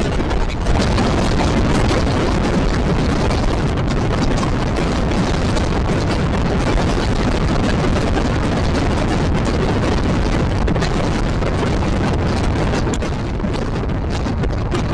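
Moving passenger train heard from on board: a loud, steady running noise of wheels on the track and rushing air.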